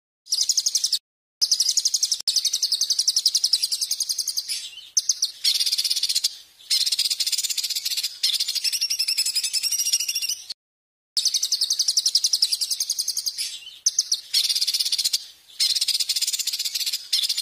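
Songbird song played from a recording: loud, high-pitched, very fast trills in long runs, broken twice by abrupt short silences where the clips are spliced.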